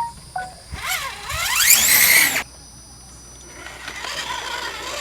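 Electric motor of an RC rock-crawler truck revving up in a fast rising whine for about a second and a half, then cutting off suddenly.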